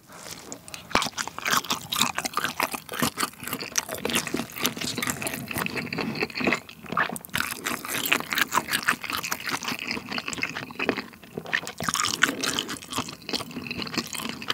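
Close-miked wet chewing of a sausage dipped in pizza sauce: a dense run of small moist clicks and squelches, with a brief lull about eleven seconds in.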